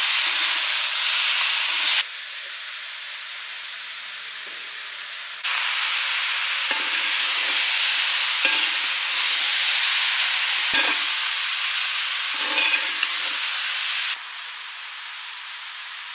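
Chicken, tomatoes and spices sizzling in a steel pot while a metal spatula stirs and scrapes through them. The sizzle drops sharply about two seconds in, comes back louder a few seconds later and drops again near the end.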